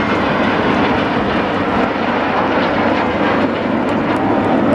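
Steady, loud roar of BAE Hawk T1 display jets flying overhead.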